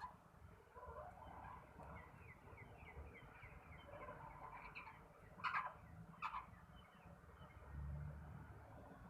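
Birds calling: a quick run of short, falling chirps about two seconds in, then two louder, harsher calls a little under a second apart around the middle.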